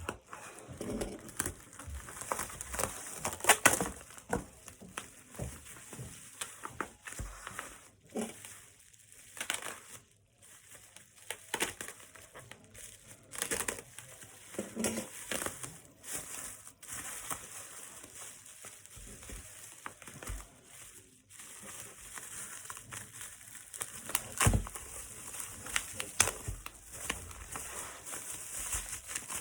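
Packaging crinkling and rustling as a parcel is unwrapped by hand, with irregular crackles, clicks and occasional tearing.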